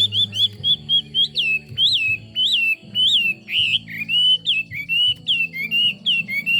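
Chinese hwamei singing a long run of loud, repeated whistled notes, each sliding up and then dropping. The notes come about two a second, after a faster, more jumbled run at the start.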